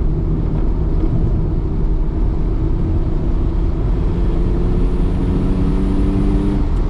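Mitsubishi 3000GT VR4's twin-turbo V6 running steadily under way, heard from inside the cabin as a steady engine drone over road rumble; the engine tones break off shortly before the end.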